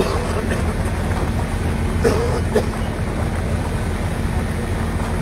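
Steady low rumble of a diesel engine from construction machinery running on site, with a couple of short knocks about two seconds in.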